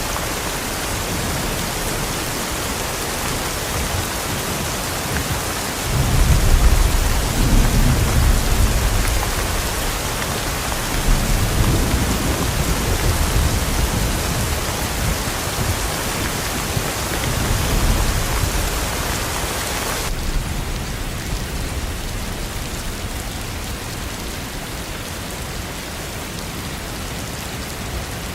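Steady heavy rain with rolling thunder: a low rumble swells about six seconds in and comes back twice more, weaker. Past two-thirds of the way through, the hiss of the rain suddenly turns duller.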